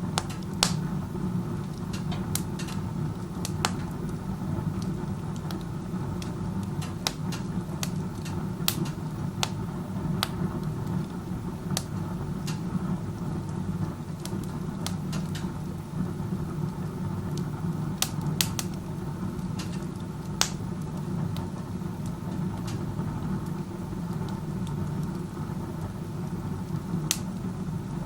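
Wood stove burning with its door open, the chimney's strong draft drawing air through it in a steady low roar, with wood crackling in scattered sharp pops. A draft this strong hurts combustion efficiency.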